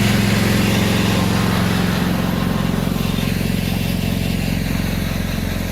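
A motor vehicle's engine running steadily close by, a low even hum with a fast pulse that eases off slightly toward the end.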